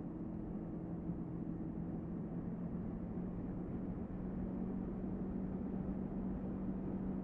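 Motorcycle engine running at a steady pace with a low, even hum, under a constant rush of wind and road noise from riding.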